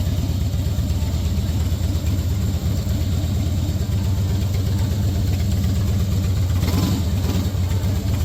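An engine running steadily at an even pitch throughout.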